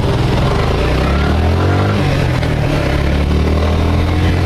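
Suzuki Gixxer motorcycle engine running under way, its pitch sliding down and then settling into a steady drone.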